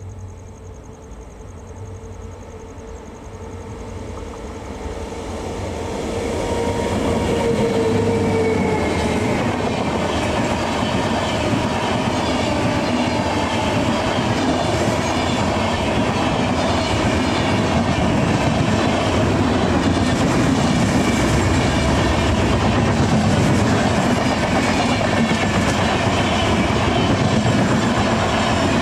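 An express train approaching through a station and then running past at speed, its wheels and cars on the rails. The noise builds over the first several seconds and then stays loud and steady.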